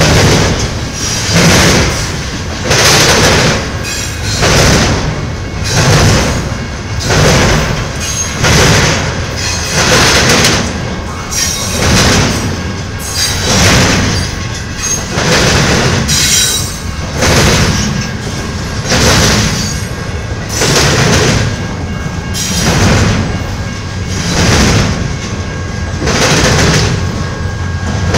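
Double-stack intermodal freight train's container well cars rolling past at speed. The steel wheels on the rails make a loud, continuous noise that swells and eases about every second and a half as each car's wheel trucks go by.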